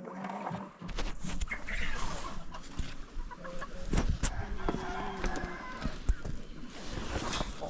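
Chickens clucking, mixed with scattered sharp knocks and clicks.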